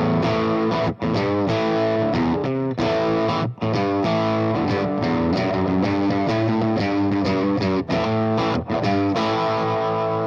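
Electric guitar played through a NAM capture of a vintage American-style amplifier on a GP-150 multi-effects unit. Chords are strummed in a run, with short breaks between them, and the last chord is left ringing near the end.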